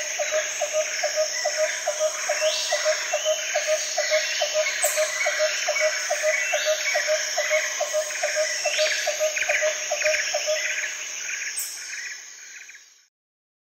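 Recorded nature ambience of chirping insects: a steady high trill and busy overlapping chirps over a regular call repeating about three times a second, fading out near the end.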